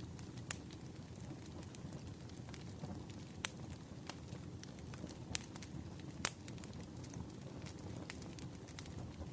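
Wood fire burning, a low steady rumble with sharp crackles and pops every second or so.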